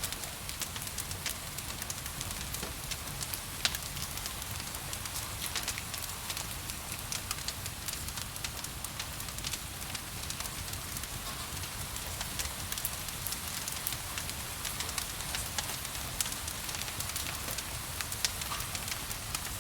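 Wood fire crackling with frequent sharp pops and snaps over a steady hiss of rain and a low rumble.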